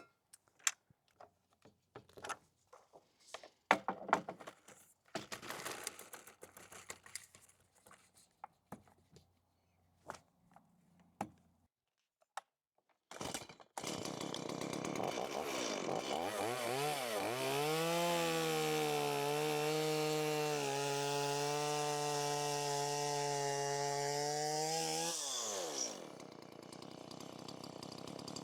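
A few scattered clicks and knocks of handling the chainsaw jig, then about halfway through a chainsaw starts, revs up and is held steady at full throttle for several seconds while cutting a 6x6 post end square, before the revs drop back toward idle near the end.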